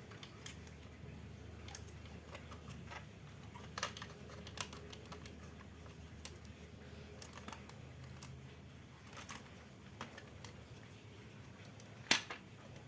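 Scattered light clicks and taps of small parts being handled, irregular and a few seconds apart, with a sharper click near the end.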